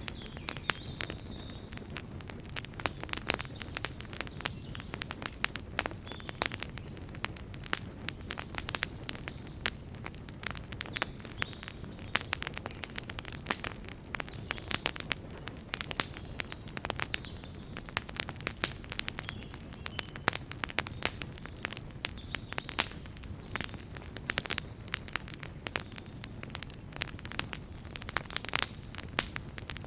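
Wood campfire crackling and popping steadily, with dense irregular snaps over a low rumble of the flames.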